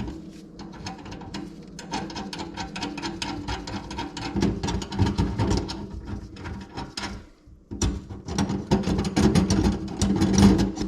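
A handheld power tool running in two spells: a steady motor hum with rapid clatter, stopping briefly about seven seconds in and starting again.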